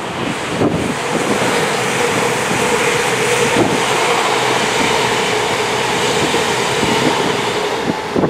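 CrossCountry Voyager diesel-electric multiple unit passing at speed: a loud, steady roar of underfloor engines and wheels on rail, with a held tone running through it and a few sharp clicks. It swells about a second in and eases off near the end.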